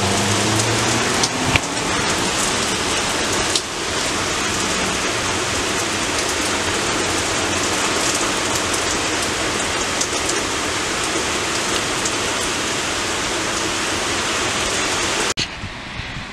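Heavy rain pouring down steadily, with the tail of a low thunder rumble dying away in the first second. Near the end the sound drops suddenly to a quieter, lighter rain.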